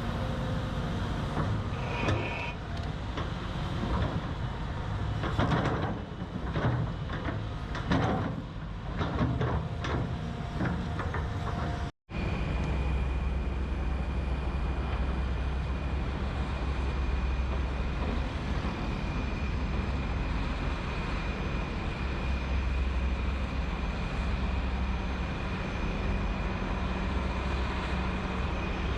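Heavy diesel construction machinery running, with irregular metal clanks and knocks for about the first twelve seconds. After a cut, a machine engine drones steadily, carrying a thin, constant high whine.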